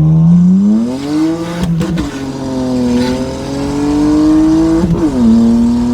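Tuned car engine with a true dual exhaust, accelerating hard through the gears. The revs climb, then drop sharply at two upshifts, about two seconds in and again near the end, each with a brief crackle from the exhaust.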